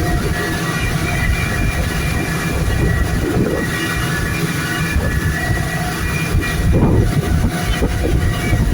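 Steady loud rumble of a boat running fast over the water, with wind buffeting the microphone.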